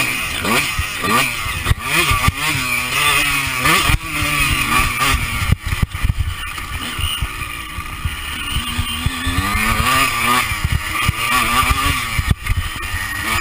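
Honda CR125 two-stroke single-cylinder motocross engine revving hard and dropping back again and again as the rider works the throttle and gears, heard from on the rider's body. Scattered sharp knocks cut through it.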